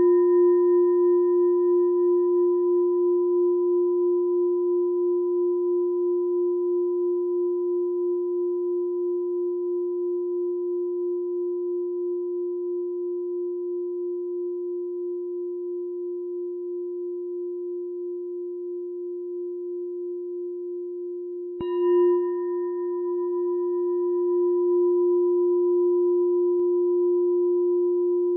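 A meditation bell ringing out after a strike, a low steady tone with fainter higher overtones that wavers slowly as it fades. It is struck again about three-quarters of the way through and rings on.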